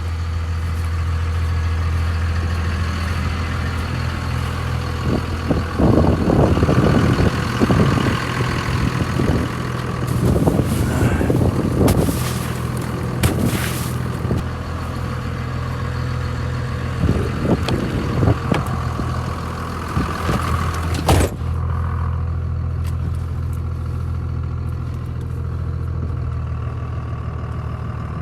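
Pickup truck engine running steadily while the truck is worked in snow to get it out. In the middle stretch there are uneven surges of louder engine and clatter, and a sharp knock about 21 seconds in, after which the sound is more muffled.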